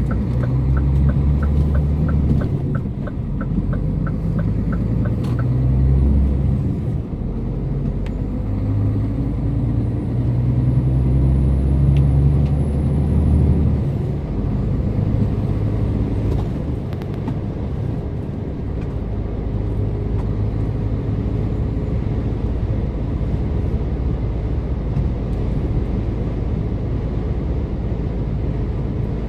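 Scania R410 truck's diesel engine pulling under load, its note climbing and dropping twice as the automated gearbox changes up, then running steadily. A rhythmic ticking, about three a second, stops about five seconds in.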